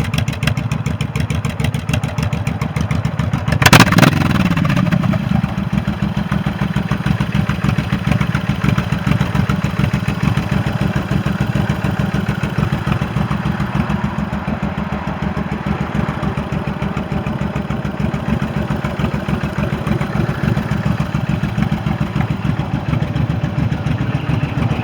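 Honda VTX1800R's large V-twin engine idling with an even, loping beat. About four seconds in it is given one quick, loud blip of the throttle, and the revs fall back to idle.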